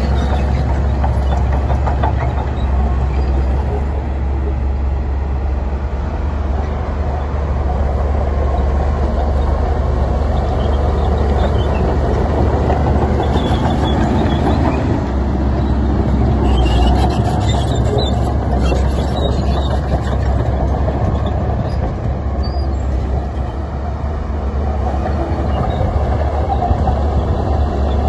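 Heavy diesel earthmoving machinery running steadily: a loud low engine rumble, with some clanking and rattling partway through.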